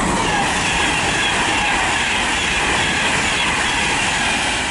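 Class 390 Pendolino electric train passing through without stopping: a loud, steady rush of wheels and air, with a whine that slowly falls in pitch as it goes by.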